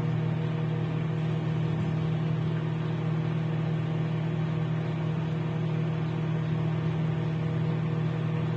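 Hanabishi HMO-20MBD digital microwave oven running: a steady low hum.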